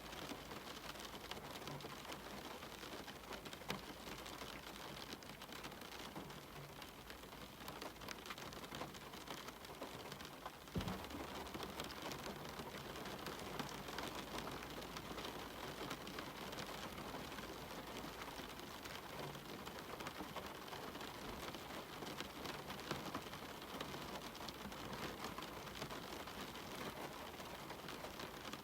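Steady rain pattering on a cabin window, with many small drop ticks through an even hiss. A single low thump sounds about eleven seconds in.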